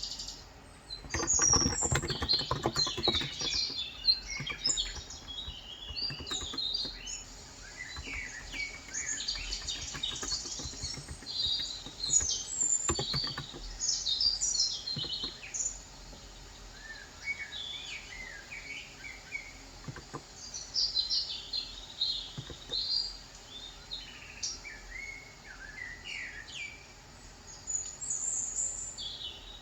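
Birds chirping and twittering in many short, high calls, with a run of sharp keyboard key clicks in the first few seconds and a few single clicks later.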